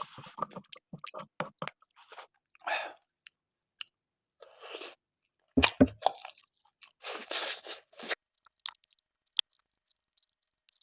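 Close-miked chewing and crunching of food in irregular bursts, with wet mouth sounds and short pauses between bites.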